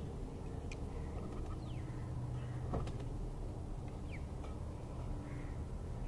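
Two short, thin, falling bird chirps over a steady low background rumble, with a sharp click near the middle.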